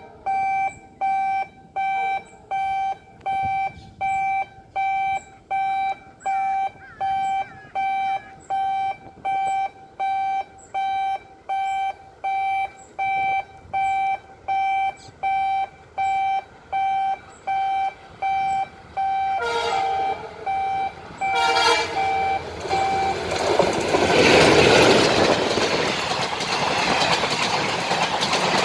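An electronic warning tone beeps steadily about three times every two seconds. Then a diesel locomotive horn sounds two blasts, and a WDM-3A ALCO diesel-hauled express train rushes past at speed with loud, continuous rail noise.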